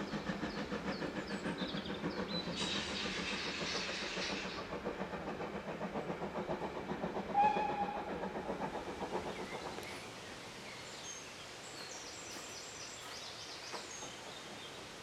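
Steam tank engine BR 41313, an Ivatt Class 2 2-6-2T, running with a steady rhythmic beat of about three a second, with a burst of hiss a few seconds in and a brief high tone about halfway through. The train sound dies away after about ten seconds, leaving a quiet outdoor background.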